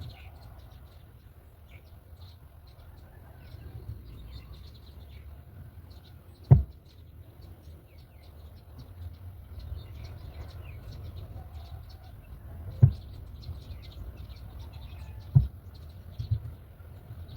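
Faint, high bird chirps scattered throughout over a steady low rumble, broken by three sharp thumps about six, thirteen and fifteen seconds in, with a smaller knock soon after the last.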